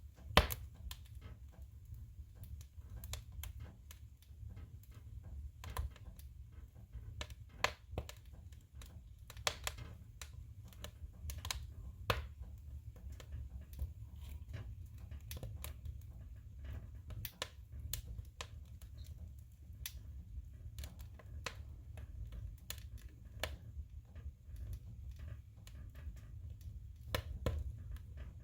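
Firewood burning in a wood stove: sharp, irregular crackles and pops over a steady low rumble of the fire.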